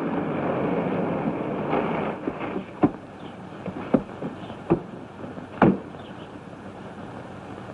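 A steady rushing rumble that drops away about two seconds in. It is followed by four sharp knocks, roughly a second apart, over the hiss of an old film soundtrack.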